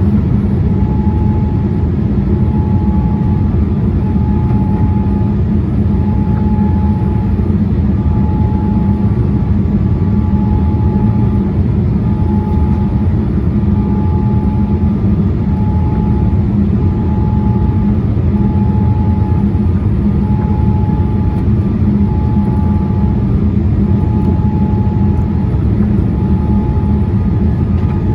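Steady cabin noise of a jet airliner in flight: a loud, even rumble from the engines and airflow. Over it runs a faint high tone that repeats in short dashes a little less than once a second.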